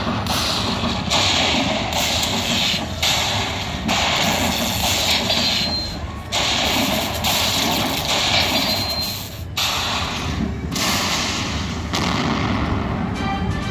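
Dollar Storm slot machine sound effects: a run of loud crashing bursts, each about a second long with brief gaps between. Tuneful machine music begins right at the end.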